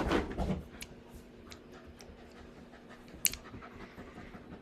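Quiet pause with a faint steady hum and a few faint ticks, and one sharp click about three seconds in.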